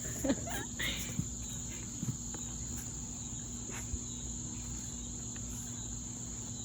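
Steady insect chorus outdoors: a continuous high-pitched trill that does not let up, with a few faint light taps.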